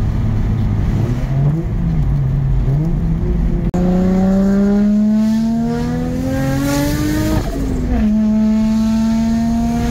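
V8 car engine heard from inside the cabin, running at a steady pace. About a third of the way in the sound breaks off sharply, then the engine pulls with a steadily rising pitch, shifts up about three-quarters of the way in, and settles into a steady run.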